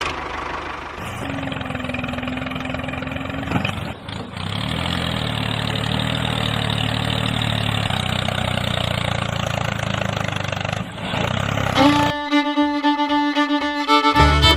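A motor running steadily for about twelve seconds, then it gives way to music with a fiddle near the end.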